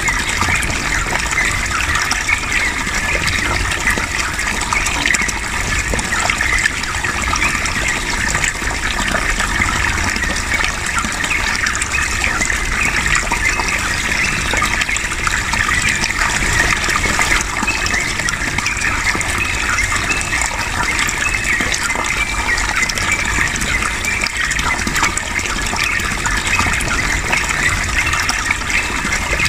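Steady flowing water running without a break, with the chattering, rolling song of a yellow-vented bulbul mixed in.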